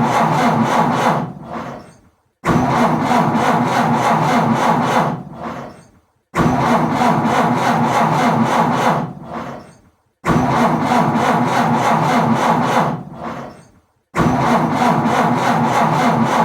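A car's starter cranking an engine that won't catch, in repeated attempts. One attempt is under way at the start and four more follow, about every four seconds. Each is a few seconds of fast, even cranking that cuts in suddenly and trails off into a brief silence.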